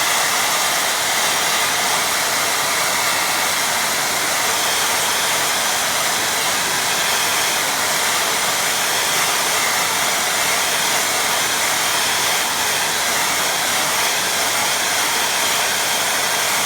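Hair dryer blowing steadily, drying wet watercolour paint on the paper.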